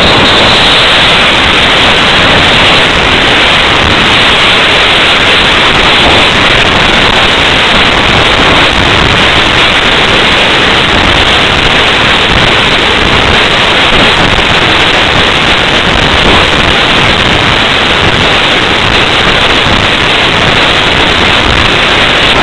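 Loud, steady rush of wind over the microphone of a small camera riding on an unpowered slope-soaring model glider in flight, an even noise with no engine note.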